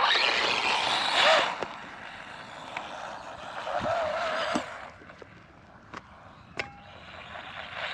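Small brushless electric motor of an Arrma Mojave Grom BLX RC truck whining as it accelerates in two bursts, with tyre noise over dirt and grass. The first burst comes at the start and the second a few seconds in. After that it goes quieter, with a couple of short knocks near the end.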